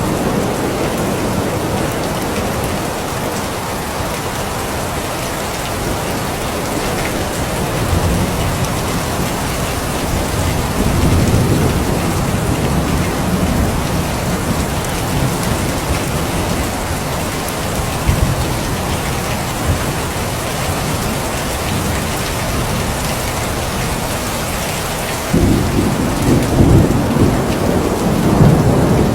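Steady heavy rain falling, with thunder rumbling low in the background. A louder roll of thunder swells up suddenly near the end.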